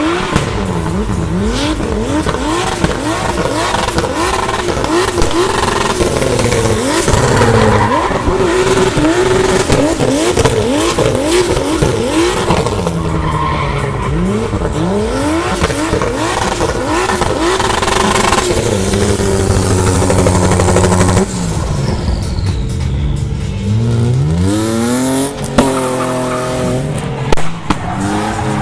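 BMW inline-six drift car engines revving hard, the pitch rising and falling every second or so as the throttle is worked through a slide, with tyre squeal. About two-thirds through the sound changes, and near the end one engine revs up in a long climb and holds high.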